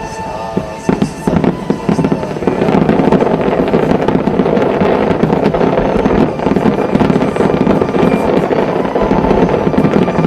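Fireworks going off. A few sharp bangs about a second in give way, after about two and a half seconds, to a dense, continuous crackling barrage. Music is heard under it at the start.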